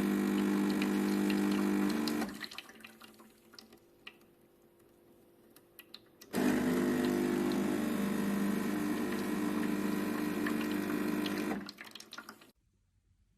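De'Longhi Vintage Icona espresso machine's pump running with a steady hum. It stops about two seconds in, and a few seconds of faint ticks follow. It then runs again for about five seconds before cutting off.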